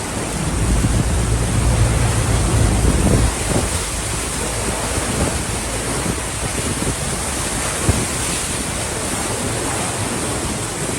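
Steady rushing noise of floodwater and wind, with wind buffeting the microphone as a low rumble during the first three seconds or so.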